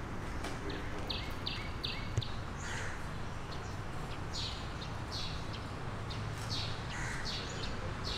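Birds calling: a quick run of three short high chirps about a second in, then repeated short downward-sweeping calls, over a steady low background hum.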